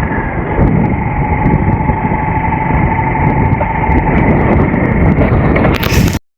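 Steady rumble of a running vehicle with wind noise on the microphone and a faint steady hum, cut off abruptly near the end.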